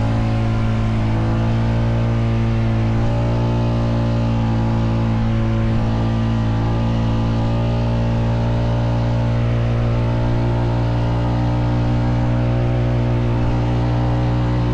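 Honda Foreman 520 ATV's single-cylinder engine running steadily at a constant engine speed, the pitch wavering only slightly.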